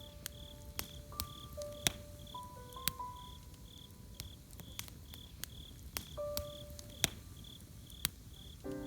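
Crickets chirping steadily about twice a second over a campfire crackling with scattered sharp pops. A sparse, slow melody of held notes plays softly, and a fuller chord comes in near the end.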